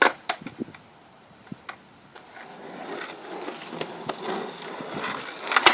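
Skateboard: a few sharp clicks, then its wheels rolling on pavement, growing steadily louder from about two seconds in, with a loud clack of the board right at the end as a backside heelflip attempt is landed or missed.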